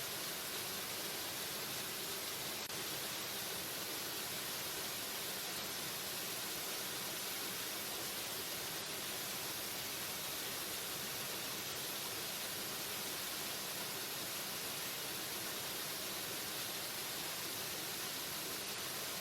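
Waterfall rushing steadily: an even, unbroken hiss, strongest in the high range and thin in the bass.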